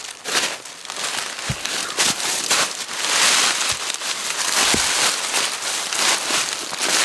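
Dry leaves and twigs rustling and crunching, with a few dull thumps.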